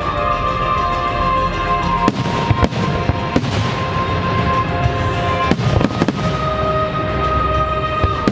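Fireworks going off in sharp bangs during a pyromusical show's finale, with a few at a time and a quick cluster of them past the middle, over music with long held notes.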